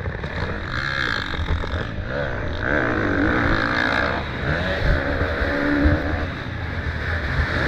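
Motocross bikes racing, their engines revving up and down, with a heavy wind rumble on the microphone.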